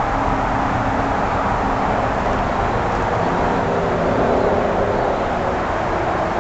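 Steady rumble of road traffic, with a faint engine hum under it.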